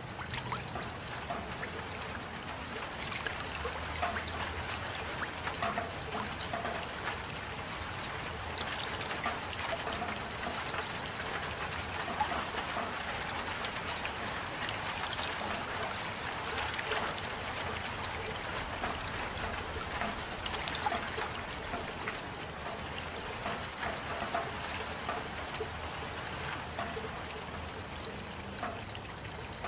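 Steady rain, with many individual drops and splashes pattering and water trickling.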